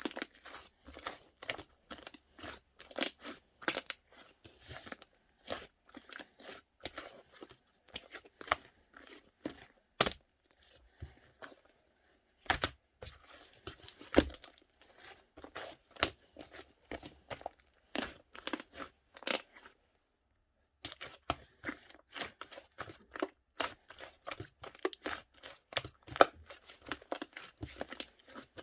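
Hands squeezing and stretching slime, making a dense, irregular run of sticky clicks, pops and crackles. It stops for about a second roughly two-thirds of the way through.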